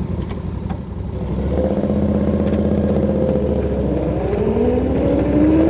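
Moto Guzzi V-twin engine of a Pembleton three-wheeler pulling away. It runs at a steady beat at first, then rises in pitch about four seconds in as the car accelerates.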